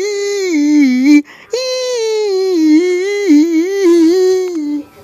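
A high-pitched voice humming a wordless tune, with a short break for breath just over a second in, then stopping near the end.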